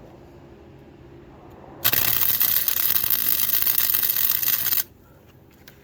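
Flux-core MIG welder striking an arc and laying a short tack weld on a steel go-kart frame: a loud, steady crackle that starts suddenly about two seconds in, lasts about three seconds and cuts off when the trigger is released.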